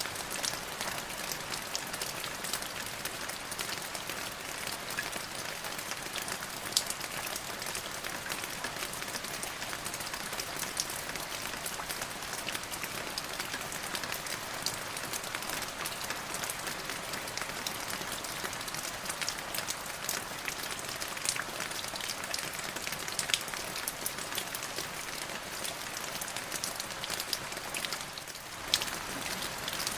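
Steady rain: an even hiss of rainfall with many individual drops striking close by as sharp ticks. The rain briefly eases about two seconds before the end, then a louder drop hits.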